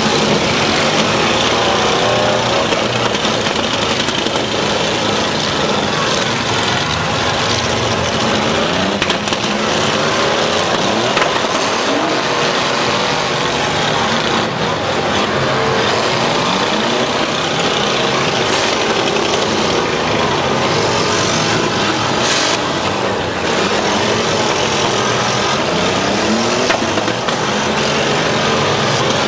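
Several demolition derby cars' engines revving up and down at once, their pitches overlapping, with now and then a short crunch of cars colliding.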